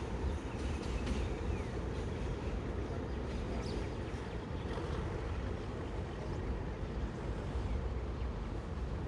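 Steady low rumble of a train on the move, with no horn or distinct clanks.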